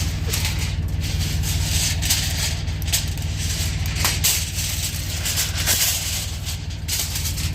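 A steady low engine drone with an even rapid pulse, as of an idling truck engine, under a constant hiss and frequent light rattling.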